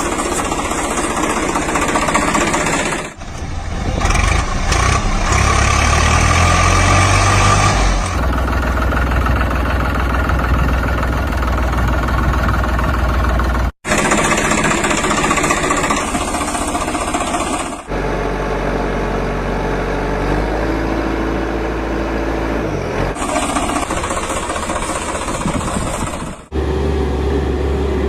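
Tractor-like engine running, in a string of spliced clips a few seconds long. At each splice the pitch and tone jump suddenly, and there is a brief dropout about halfway through.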